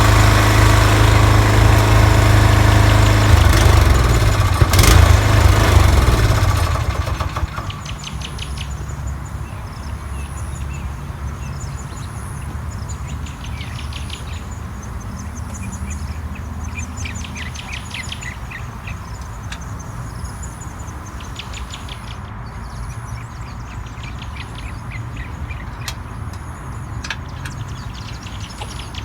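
Toro TimeMaster mower engine running at speed on a test run, with new lower spindle ball bearings and the deck belts set to the correct tension. About six or seven seconds in, the engine sound drops away to a low steady rumble, and birds sing over it.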